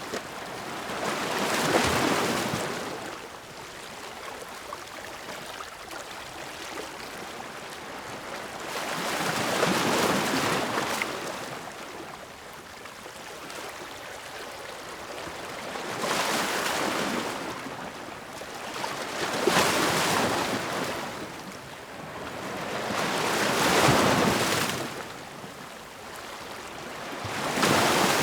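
Ocean waves breaking on the shore, each one swelling into a rushing wash and fading back, about five times, with steady surf hiss in between.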